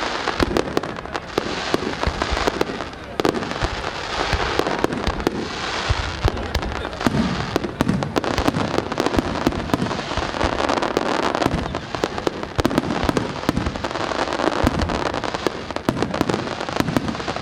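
Aerial fireworks firing in a dense, continuous barrage: many sharp bangs and crackles a second with no pause, as in a display's climax.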